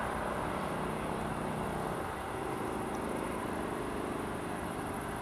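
Freight train of hopper wagons running on the rails, a steady rolling noise of wheels on track.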